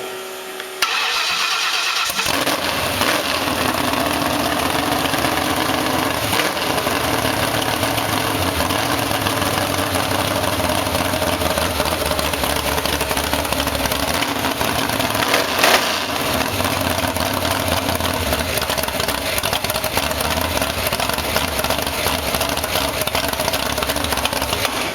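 Ford 351 Cleveland V8 engine being started: the starter cranks for a moment, and the engine catches about two seconds in. It then runs loudly and fairly steadily, with the revs shifting a little and one brief louder burst about fifteen seconds in.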